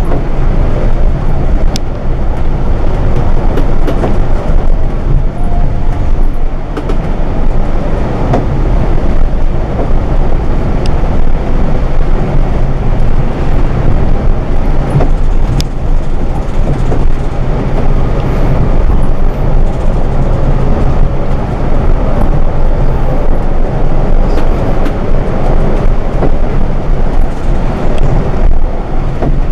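Scania K410iB coach under way, heard from inside the cabin: a steady, loud low engine drone mixed with road and wind noise.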